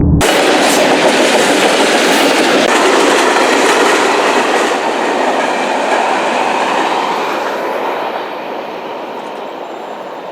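Train cars rolling along the rails, the wheels clattering on the track. The sound comes in abruptly just after the start and fades steadily over the last few seconds.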